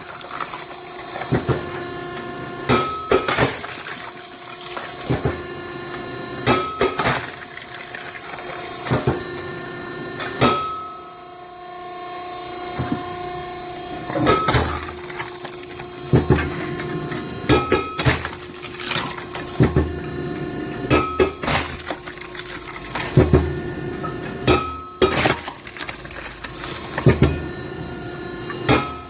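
Hydraulic log splitter (SSLJ100-600H) with a cross-shaped splitting blade at work, its hydraulics giving a steady whine that swells and fades. Green oak rounds crack apart and split pieces knock and clatter down, with sharp cracks every one to two seconds.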